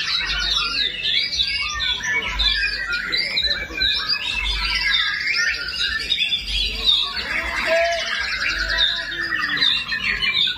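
White-rumped shama singing a long, unbroken run of rapid chirps and trills with mimicked calls of other birds, over a dense chorus of other caged songbirds.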